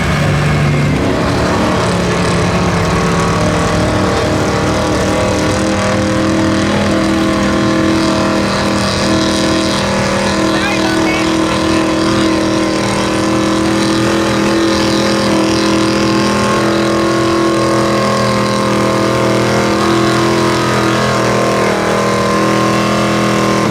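Pulling truck's engine running hard at high revs under load. Its pitch climbs over the first couple of seconds, then holds steady.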